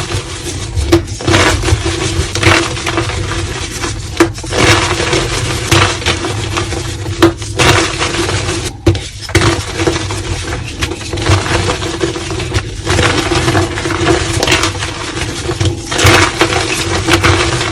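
Soft reformed gym chalk being crushed and crumbled, a continuous dense crunching and crackling with frequent sharper snaps.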